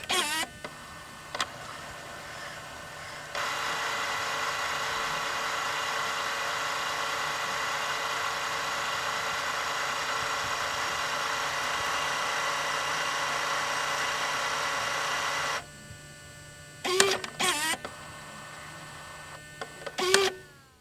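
A small electric machine: a clunk, then a steady motor hum that gets louder about three seconds in and drops back about fifteen seconds in, followed by two bursts of mechanical clunks near the end.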